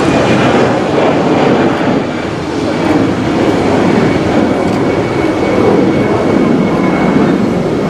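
A jet airliner's engines running loud and steady as the aircraft moves along the runway: a dense, even rumble with a faint high whine above it.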